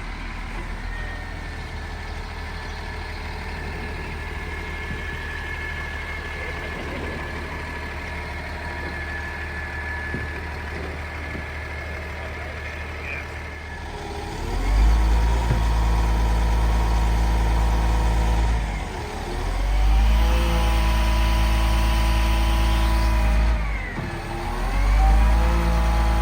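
A large vehicle engine runs steadily at low revs, then revs up loud about fourteen seconds in. It drops back briefly twice and revs up again each time.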